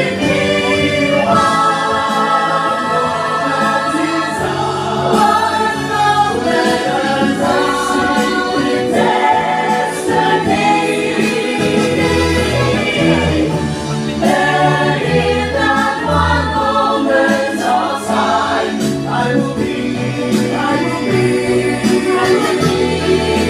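Music with a choir singing over sustained bass notes.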